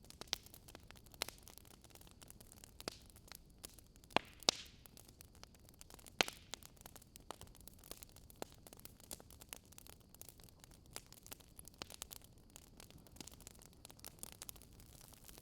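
Campfire crackling: irregular sharp pops and snaps of burning wood over a faint steady hiss, a few pops louder than the rest about four and six seconds in.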